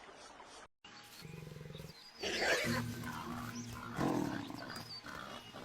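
A big cat growling and roaring in two loud bouts, the first about two seconds in and the second about four seconds in, after a brief gap and a low hum early on.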